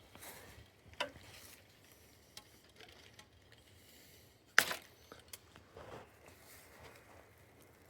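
Handling noises from work on sap tubing fittings: scattered light clicks and knocks, with one sharp click about four and a half seconds in.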